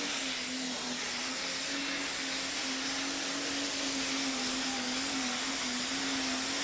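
A pulling vehicle's engine running hard at steady high revs: a loud, even hiss with a steady droning tone that wavers slightly in pitch.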